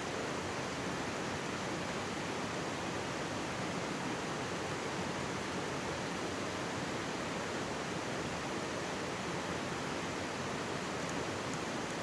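Mountain stream babbling steadily, with one or two faint crackles from a wood campfire near the end.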